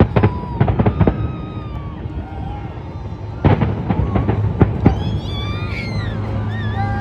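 Fireworks bursting: clusters of sharp bangs and crackles at the start, again about a second in, and from about three and a half seconds on, over a steady low rumble, with a few gliding whistles or voices above.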